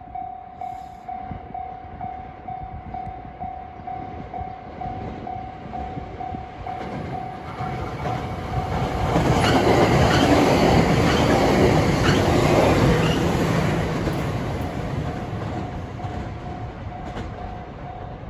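Japanese level-crossing warning bell ringing its steady, evenly repeating ding while a 521 series electric train passes. The train's running noise builds, drowns the bell for several seconds in the middle with a few sharp wheel clacks, then fades and leaves the bell ringing on its own.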